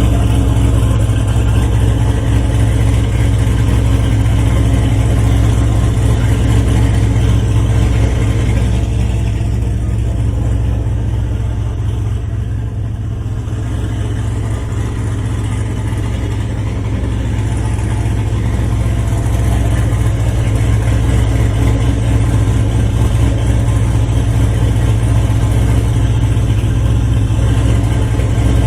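Turbocharged LQ9 6.0-litre V8 in a Nissan 350Z idling steadily on a cold start, its sound easing slightly about halfway through and then coming back up.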